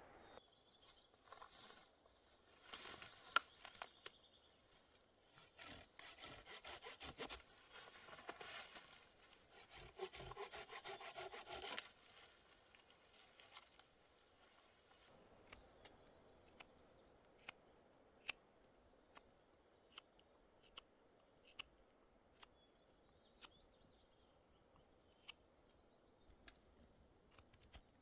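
Wood being sawn by hand, a run of scratchy saw strokes that stops abruptly about twelve seconds in, followed by scattered light clicks.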